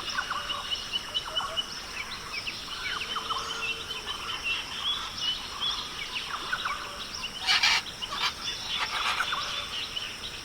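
Rainforest ambience: many short bird chirps and calls over a steady high-pitched hum, with a brief, louder harsh call about seven and a half seconds in.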